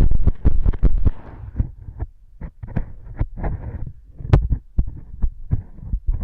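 Cleaning tools scraping and rubbing inside a silicone ear model, close to the microphone: a quick, irregular run of muffled scratches, rustles and low thuds, with one sharp click about four seconds in.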